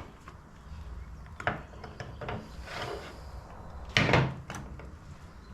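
Handling of tools and metal engine parts while working a tight part loose: a few separate knocks and clicks, the loudest about four seconds in, with a short rubbing scrape in between.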